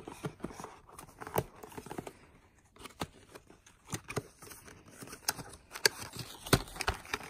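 Cardboard box and packaging being handled and worked open by hand: scattered sharp clicks, taps and short rustles, with a louder knock about six and a half seconds in.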